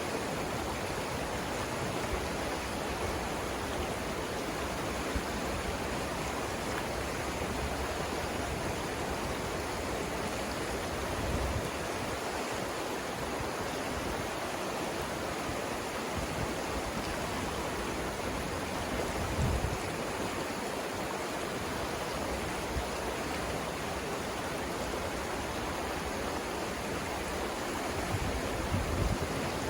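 Steady rush of the Savannah River flowing over rapids, an even watery hiss with a few brief low rumbles about a third of the way in, past the middle, and near the end.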